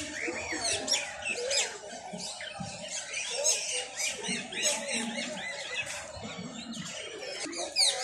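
Many caged birds chirping and squawking at once, a dense chorus of short overlapping calls with one sharp, louder squawk near the end.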